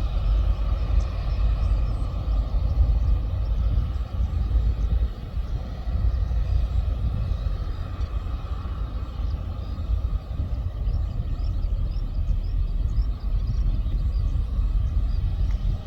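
Airliner jet engines rumbling, with a faint steady whine above the rumble that weakens in the second half.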